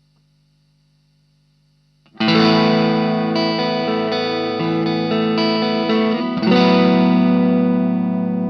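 Fender Stratocaster electric guitar through an Ibanez Tube Screamer Mini overdrive pedal and a Marshall MG15 amp. After about two seconds of faint amp hum, a chord is struck and rings with a few changing notes. A second strum about four seconds later is left to ring out and fade.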